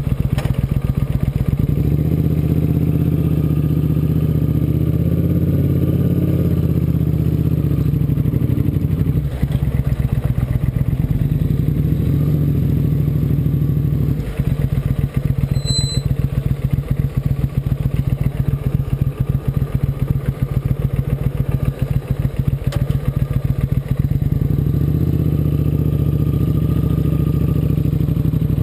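Motorcycle engine running steadily, then settling into a slower, pulsing beat of separate firing strokes for about ten seconds in the middle before picking back up near the end.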